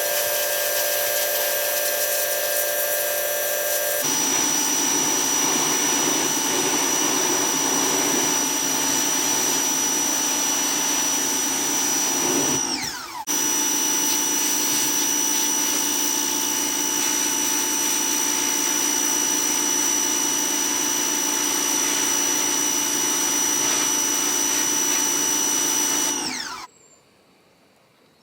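Pressure washer running with a steady motor whine and water spray noise. Its pitch falls and it dips briefly about halfway through before picking straight back up. Near the end it winds down and stops.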